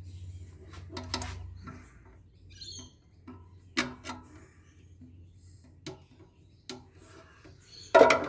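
Scattered clicks and knocks of metal parts and hand tools being handled while a solar inverter is taken apart, with a loud clank near the end.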